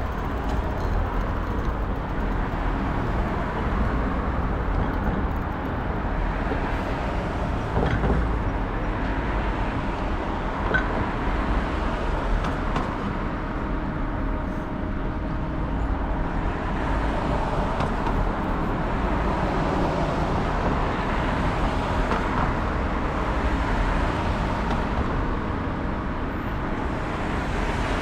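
Steady city traffic noise mixed with a low rumble of wind on the microphone while riding a bicycle along the street.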